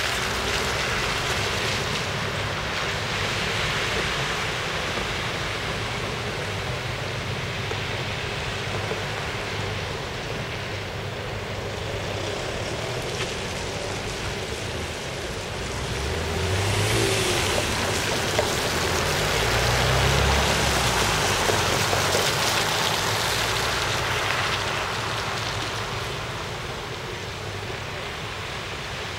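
Steady rush of the River Liffey in flood. A motor vehicle passes in the middle, its engine rising and then falling away.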